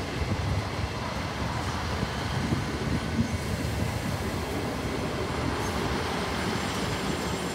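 Steady rumble from a Great Western Railway intercity train alongside the platform.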